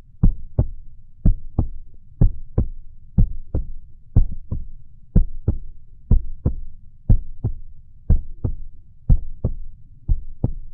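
Heartbeat, a steady lub-dub: paired beats a little under one a second, about 63 a minute, with a low rumble between them.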